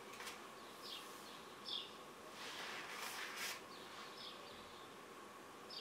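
Quiet room tone with a few short, high, falling chirps from a bird, and a soft hiss lasting about a second midway.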